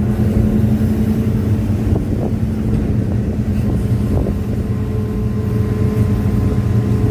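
Hitachi excavator's diesel engine running steadily, with a faint higher whine joining about five seconds in.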